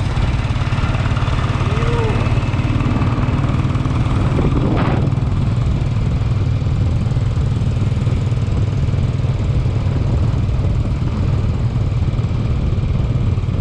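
Motorcycle engine running steadily under way, with a dense rushing noise over it. A short sweep stands out briefly about five seconds in.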